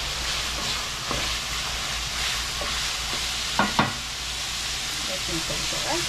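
Shrimp and diced vegetables sizzling in a large metal pot, stirred with a wooden spoon that scrapes through them, with a few knocks of the spoon on the pot, two sharper ones close together a little past halfway.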